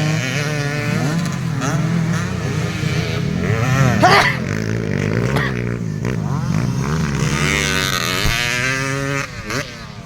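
Several enduro/motocross motorcycles racing, their engines revving up and down and overlapping, with one bike's sharp rising rev passing close about four seconds in.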